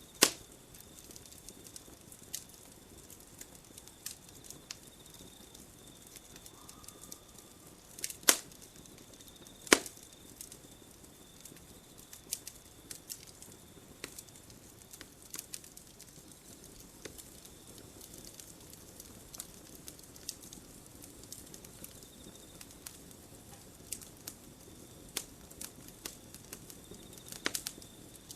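Campfire crackling: burning wood snapping and popping irregularly over a low hiss, with a few louder sharp pops, the loudest right at the start and around eight and ten seconds in. A faint, thin high tone comes and goes in the background.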